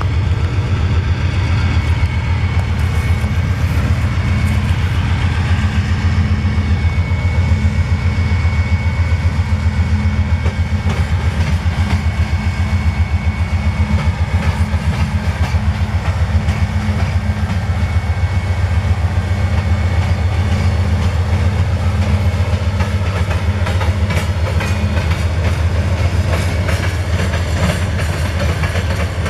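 Freight train rolling past: a steady low rumble with a rapid clickety-clack of wheels over the rail joints, and a faint high whine for several seconds in the middle.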